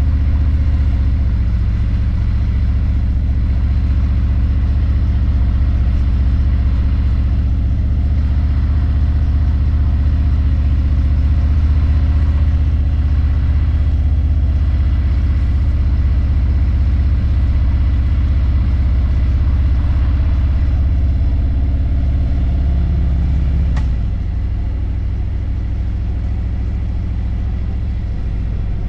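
Harley-Davidson V-twin motorcycle engine running steadily under way. About 24 seconds in there is a click, and the engine note drops lower and quieter.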